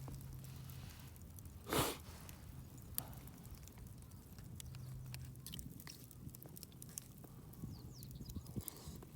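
A person eating: faint chewing with small clicks of utensils against the metal mess tin, and a short loud noise about two seconds in.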